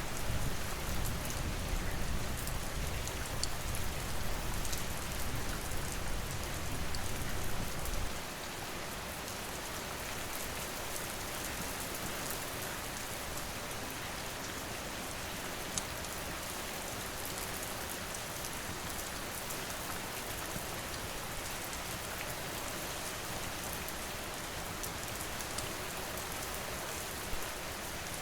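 Steady rain falling, an even hiss of drops. A low rumble underneath stops abruptly about eight seconds in, and a few sharp clicks stand out later.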